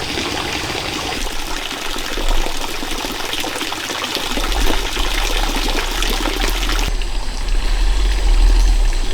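Water running or pouring: a steady rushing noise, with a low rumble joining about four seconds in.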